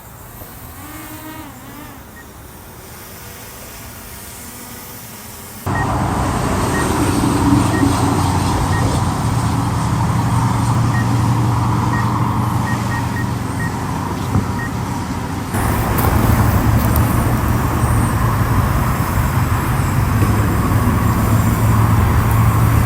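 Quadcopter drone's propellers spinning up for takeoff: a steady loud buzz with a low hum comes on suddenly about six seconds in and gets louder again about halfway through.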